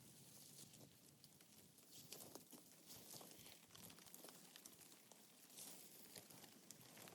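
Near silence: faint outdoor ambience with scattered small ticks and soft rustles.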